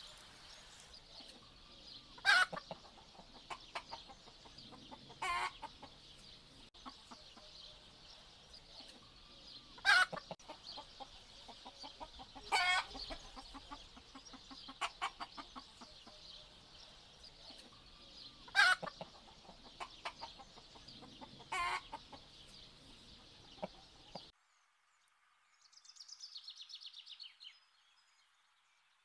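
Domestic hens clucking and squawking, with six loud short calls spread over about twenty-four seconds above a steady high-pitched hiss. It then cuts off suddenly to much quieter sound, with one brief faint high call near the end.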